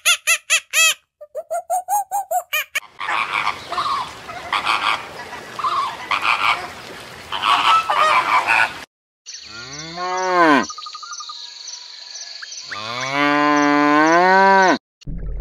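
A rapid run of short repeated calls, then a flock of flamingos honking and calling over one another for several seconds. After a short gap a cow moos twice, long drawn moos with the second longer and louder, over a steady high hum.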